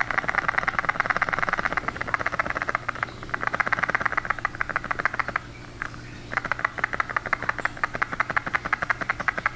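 Sun visor of a sixth-generation Honda Accord rattling: a rapid, buzzing clatter that comes in stretches of a few seconds, breaking off briefly twice, over a steady low hum. It is the abnormal visor noise being demonstrated.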